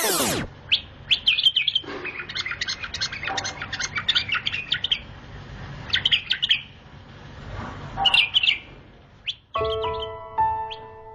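Small birds chirping and twittering in short clusters of rapid high calls. A chiming melody comes in near the end.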